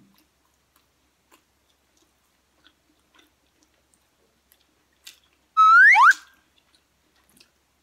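Soft, scattered chewing clicks of someone eating. About five and a half seconds in, a loud rising whistle slides upward for about half a second, two pitches climbing together.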